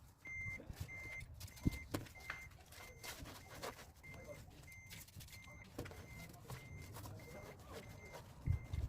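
Electronic warning beeper sounding in an even rhythm, about two short high beeps a second, with scattered clicks and knocks underneath.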